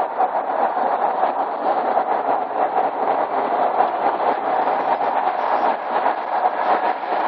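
Honda Gold Wing motorcycle on the move: a steady, dense rumble of running engine and rushing wind and road noise, holding even throughout.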